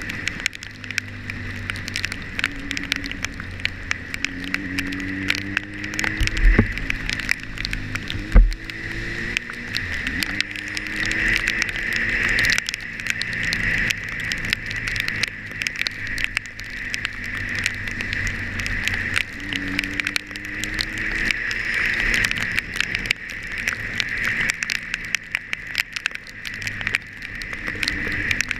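Motorcycle engine running under way, its pitch rising and falling with the throttle and gear changes, over steady wind and road hiss. Many small ticks run throughout, from rain hitting the camera. There are two heavy low thumps from bumps in the road about six and eight seconds in.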